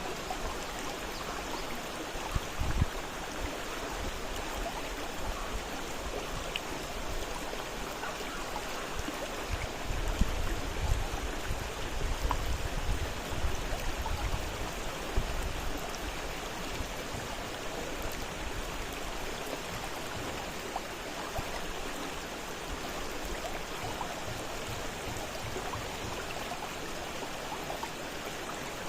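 Fast-flowing river water rushing and splashing steadily, with a few short louder splashes and a deeper low rumble that swells for a few seconds near the middle.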